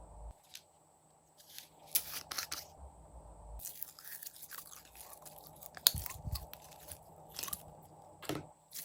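Clear slime being squeezed and pressed by hand, giving a run of sticky pops and crackles. The loudest pop comes about six seconds in.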